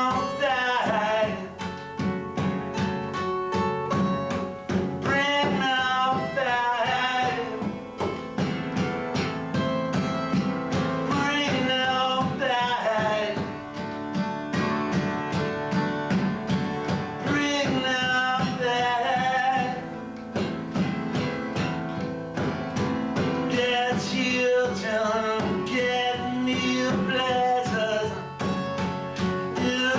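Live rehearsal music: a strummed guitar keeps a steady rhythm while a melody line, sung or played, comes in short phrases every few seconds. It is recorded through a basic VHS camcorder microphone.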